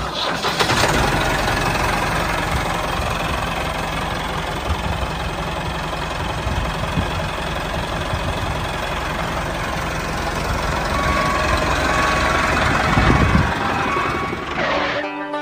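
Diesel tractor engine running steadily at idle with a knocking chug, fading out near the end.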